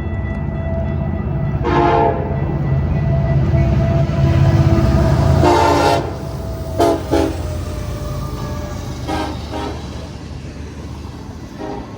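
Diesel freight locomotive horn sounding a series of short blasts over the heavy rumble of a passing train. The rumble is loudest in the first half and drops off after about halfway, and the later blasts come fainter.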